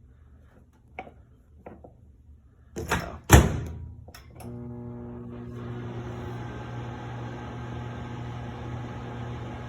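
Whirlpool microwave oven keypad presses and a loud thunk, then the oven starting up with no beep and running with a steady electrical hum and fan hiss. Its beeps have been switched off.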